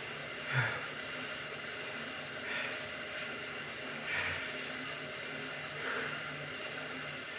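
A man breathing hard after a lifting set, an exhale about every one and a half to two seconds, over a steady hiss and low hum, with one soft thump about half a second in.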